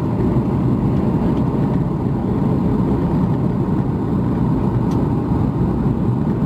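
Boeing 737 MAX 8 cabin noise: a steady, loud rumble of the CFM LEAP-1B engines and rushing air, heard from inside the passenger cabin.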